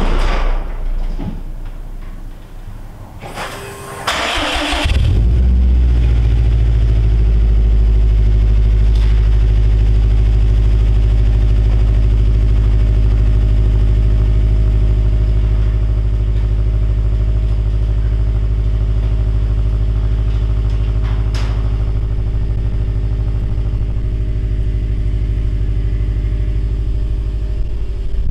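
Car engine cranked by the starter, catching about four seconds in and settling into a steady, loud idle heard at the exhaust tailpipes. The idle eases slightly about halfway through.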